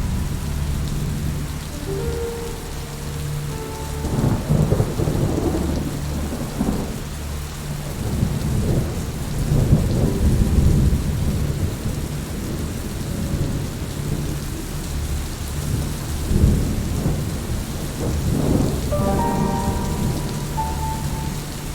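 Steady heavy rain with several rolls of thunder, loudest about four to five seconds in, around ten seconds, and again near sixteen seconds.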